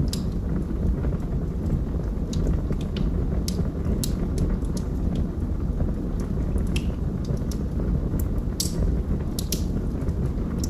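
Wood fire burning in a fireplace: a steady low rumble of flames with scattered sharp crackles and pops from the burning logs, coming irregularly a few times a second.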